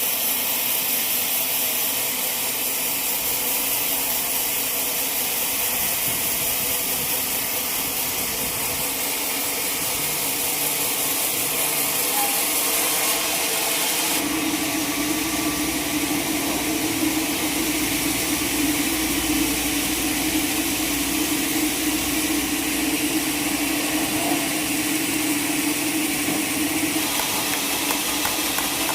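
Sawmill machinery running steadily with a constant hiss; about halfway through a steady hum comes in and holds.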